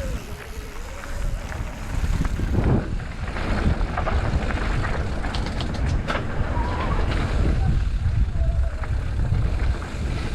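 Wind buffeting the microphone in a steady low rumble while an electric mountain bike is ridden over a trail, with scattered rattles and clicks from the bike.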